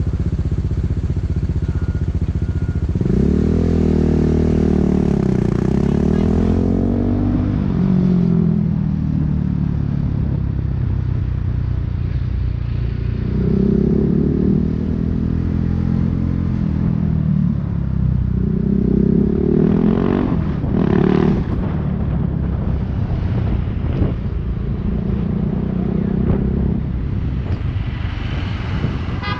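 BMW G 310 R's single-cylinder engine through an Akrapovic racing exhaust, riding in stop-and-go traffic: the engine note rises and falls repeatedly as the bike accelerates, shifts and rolls off the throttle.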